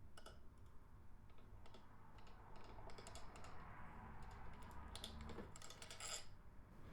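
Faint, irregular light clicks and taps of small parts being handled and unscrewed.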